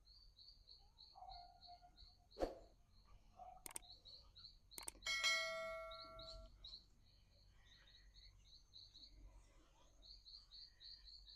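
Faint high chirping, repeating evenly about four times a second. About five seconds in, a single metallic bell-like chime rings out and dies away over about a second and a half. A couple of light knocks come before it.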